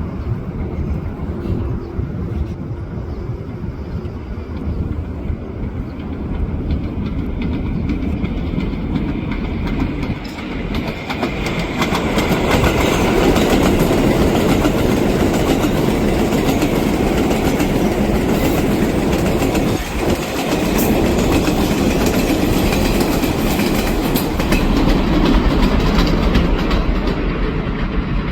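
A New York City Subway 7 train of R188 cars running on the elevated steel structure, with rapid clicking of wheels over rail joints. It grows much louder about twelve seconds in and stays loud.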